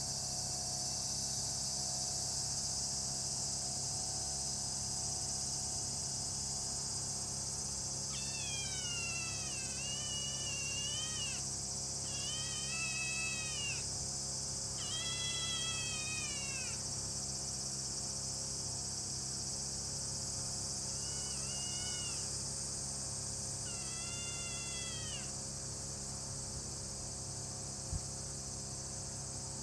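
A black kitten meowing five times, long drawn-out cries that rise and fall in pitch, the first and longest wavering, over a steady high chirring of insects. A small knock near the end.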